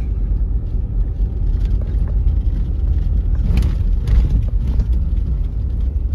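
Vehicle driving over a rough, broken diversion road: a steady low rumble of engine and tyres, with a couple of knocks from the bumps around the middle.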